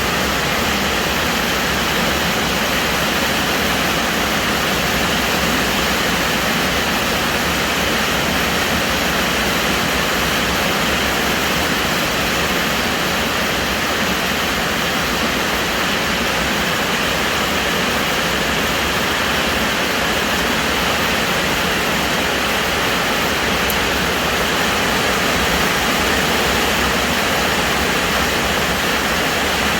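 Heavy storm rain pouring down, a loud, steady hiss with no let-up.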